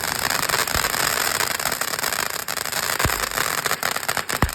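Fireworks crackling densely, with many rapid pops and a few louder bangs scattered through.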